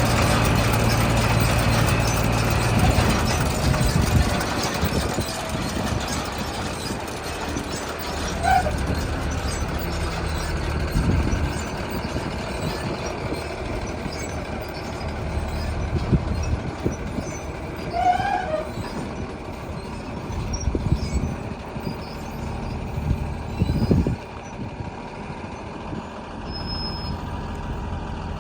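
Big square baler and the tractor pulling it running, with a steady engine drone. A few irregular heavy thumps come through, and twice a brief squeal.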